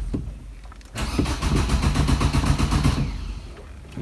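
Diesel car engine turned over by its starter motor in an evenly pulsing crank for about two seconds, starting about a second in, then stopping without catching: a crank-no-start after the car has sat unused for weeks.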